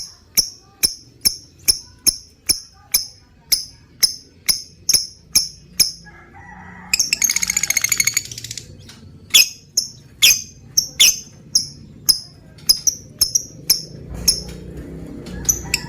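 Lovebird calling with sharp, high chirps repeated about twice a second. About seven seconds in it breaks into a fast rattling chatter lasting about a second and a half, the kind of long 'ngekek' call that keepers prize.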